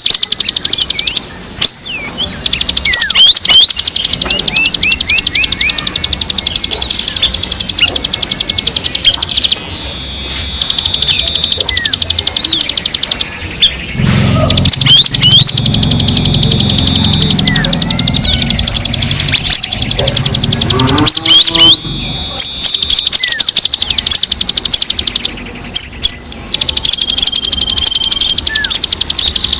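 Recorded songbird calls played as a lure for wild birds: a continuous, very fast buzzing trill with many short, sharp rising chirps over it. The trill is broken by several brief dropouts.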